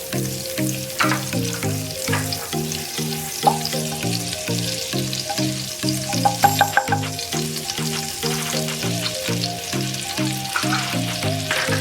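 Butter melting and sizzling in hot refined oil in a pan, with a few sharper ticks along the way.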